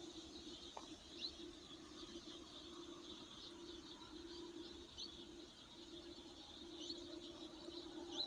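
Faint quiet ambience with a small bird giving short high chirps every second or two, over a faint low steady hum.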